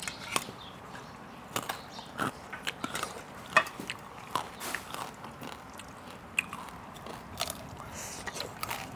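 Close-miked chewing and eating sounds: irregular wet mouth clicks and smacks as khanom jeen rice-noodle salad is eaten by hand, with a few crunches of a crispy fried topping.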